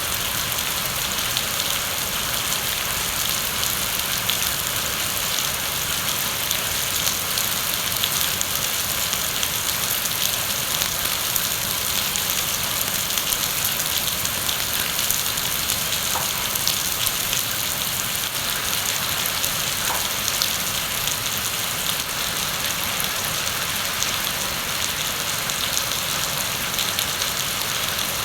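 Heavy rain falling steadily, a dense even hiss of drops with fine patter.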